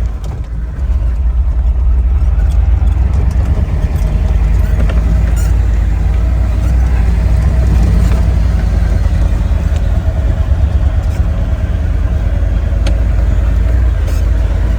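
A 7.3 IDI turbo-diesel V8 in a 1973 Ford F250 running steadily at low revs, barely on the throttle, as the truck crawls through deep snow in first gear, heard from inside the cab. It gets a little louder about a second in, with a few faint clicks over the drone.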